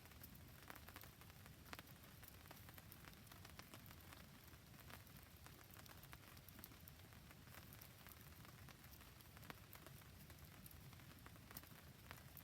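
Faint rain together with a wood campfire crackling: many small, scattered sharp ticks over a low, steady background noise.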